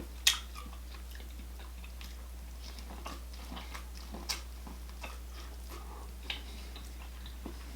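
Close-miked eating sounds: chewing and biting into seafood boil, with scattered small wet clicks and a sharp click just after the start and another about four seconds in, over a steady low hum.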